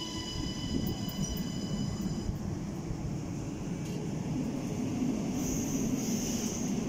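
Electric train rumbling in a station, with a high, steady multi-tone whine that cuts off about two seconds in.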